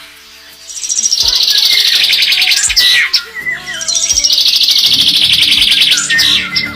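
A small songbird singing two long, rapid, high-pitched trills, the second starting about three and a half seconds in.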